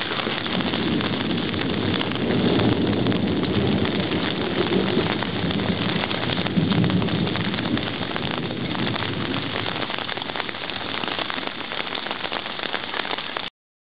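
Heavy rain pouring down in a thunderstorm, a steady hiss, with a low rumble of thunder swelling a couple of seconds in and fading out again.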